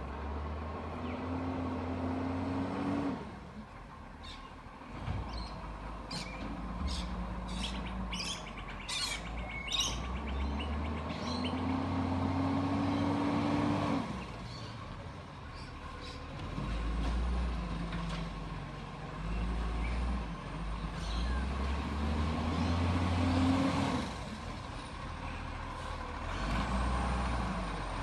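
Garbage truck's diesel engine revving up three times, each rev a rising tone held a few seconds, with the engine running lower in between. Birds chirp in a quick run of short calls in the middle.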